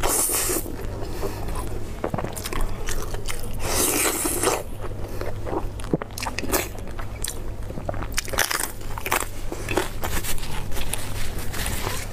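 Close-miked eating sounds: a person biting into and chewing pieces of cooked meat, with many short sharp clicks and smacks and a longer noisy burst about four seconds in. A steady low hum runs underneath.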